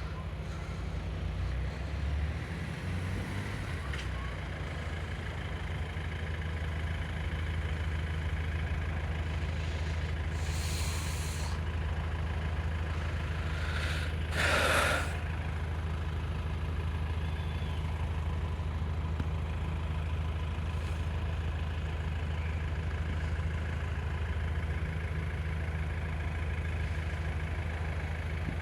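A heavy diesel road vehicle idling steadily, with two short air-brake hisses about ten and fourteen seconds in, the second one louder.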